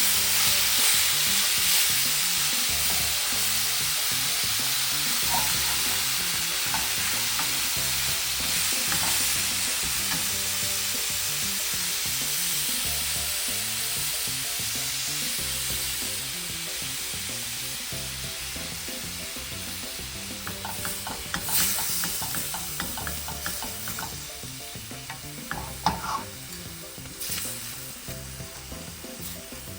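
Ground beef sizzling in a skillet, the sizzle slowly easing as the flame is turned down. About two-thirds of the way in, a utensil clicks and scrapes in the pan as the meat is broken up.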